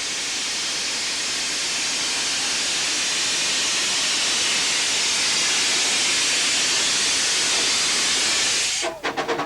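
Steam hissing steadily from a Dinorwic Quarry Hunslet narrow-gauge tank engine, cutting off suddenly near the end. A quick run of short knocks follows.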